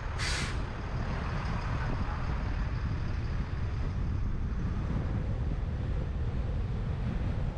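Wind buffeting a roof-mounted GoPro's microphone over the steady rumble of a truck driving along the road. There is a brief hiss about a third of a second in.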